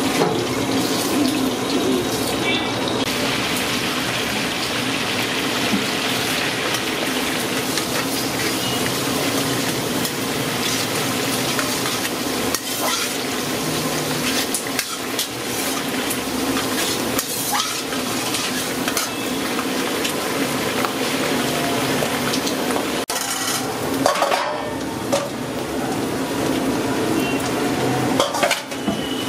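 Green chillies frying in hot oil in a black kadai, a steady sizzle, while a metal ladle stirs them and clanks and scrapes against the pan now and then.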